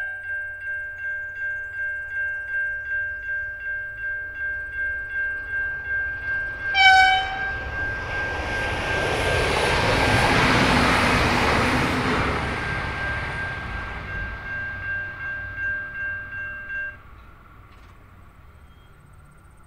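Level crossing bells ringing about twice a second as a V/Line VLocity diesel multiple unit passes at speed. The train sounds its horn in one short blast about seven seconds in, then its rushing pass builds to a peak and fades. The bells stop about three seconds before the end.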